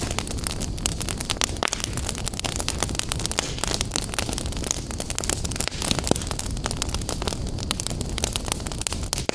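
Fireplace fire crackling, with many sharp pops and snaps over a steady low rumble.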